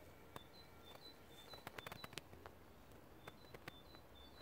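Very quiet outdoor ambience with a small bird chirping faintly in the background: short high notes repeated a few times a second, alternating between two close pitches. A handful of faint clicks come in a cluster about two seconds in.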